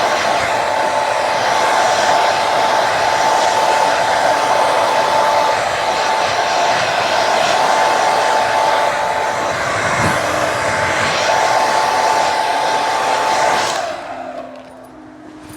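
Handheld hair dryer blowing steadily with an even rush of air and a steady whine, switched off near the end. It is drying a freshly permed head of hair.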